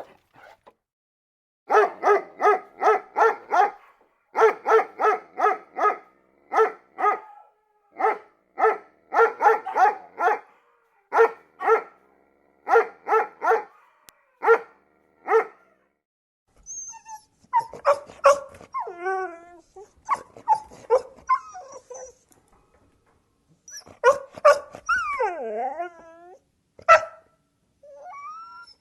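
A dog barking in quick runs of four or five short barks with pauses between runs. About halfway through, the barking gives way to whining and yelping that waver up and down in pitch.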